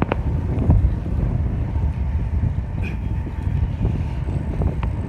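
Wind buffeting the microphone while cycling: a steady low rumble, with a few brief clicks.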